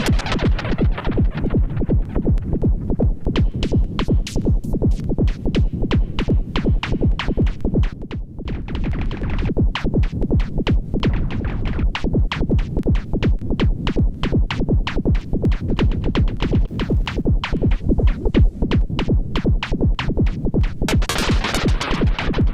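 Erica Synths Perkons HD-01 drum synthesizer playing a fast, dense electronic drum pattern with a heavy bottom end. The highs are filtered down from about a second in and open back up near the end.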